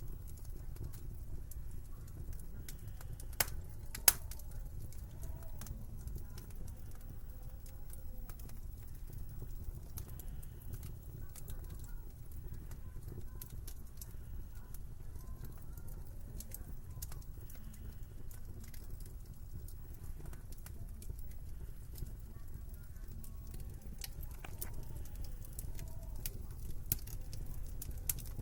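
Wood fire in a fireplace crackling, with scattered small clicks and two sharper pops about three and four seconds in, over a low steady rumble.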